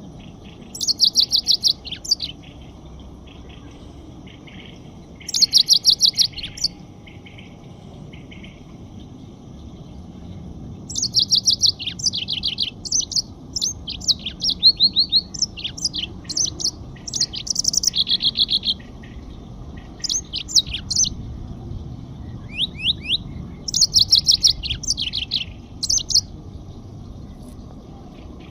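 A small songbird singing in bursts of rapid, high trills and chirps. Its phrases last about one to two seconds, with pauses between them, and grow longer and busier in the middle stretch. Under the song runs a faint low steady background noise.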